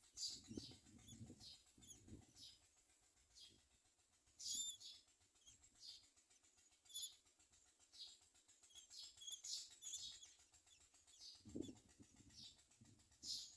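Common myna nestlings giving faint, short high-pitched chirps in the nest, repeated at irregular intervals, with a soft rustle or flutter near the start and again near the end.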